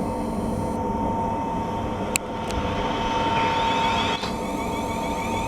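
Electric multiple-unit train at the platform, its equipment giving a steady hum with fixed tones. From about three seconds in, a higher whine of shifting tones joins as the train starts to move off. A short sharp click about two seconds in.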